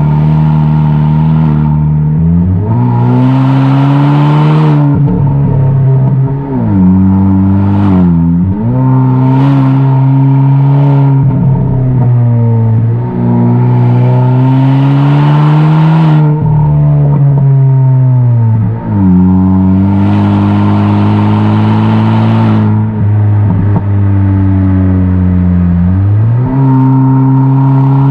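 Kia K5 (DL3) 1.6-litre turbo four-cylinder with a tuned aftermarket exhaust, driven under acceleration. The exhaust note climbs in pitch, then drops sharply at each gear change, four times over, with a rising hiss during each pull.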